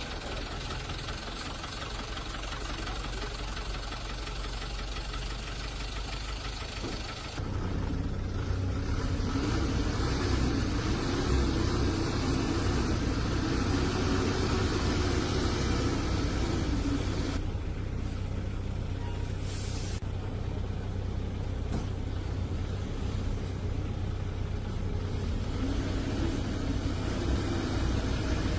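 Dump truck engine running steadily, getting louder about seven seconds in, with a wavering higher hum that rises and falls over it.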